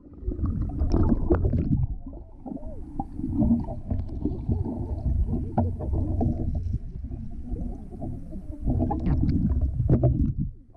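Muffled sloshing and splashing of pool water close to the microphone, with scattered knocks, as otters swim around people standing in the pool.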